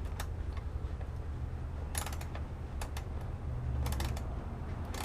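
Ratchet wrench clicking in short runs as a 12mm exhaust-mounting bolt is worked, a burst of clicks about every second, over a steady low hum.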